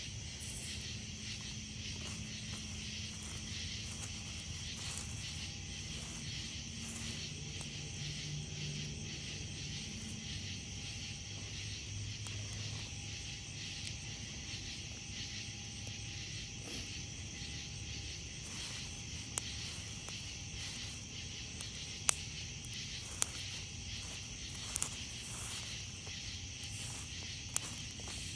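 Night insects, crickets among them, chirping in a steady chorus, with a wood campfire giving several sharp crackling pops in the second half.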